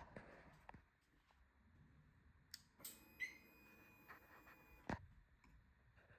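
Quiet clicks, then about three seconds in a faint steady whir with several high tones for about two seconds, ending in a click: a Harley-Davidson Breakout's ignition being switched on and its fuel pump priming before the Milwaukee-Eight engine is started.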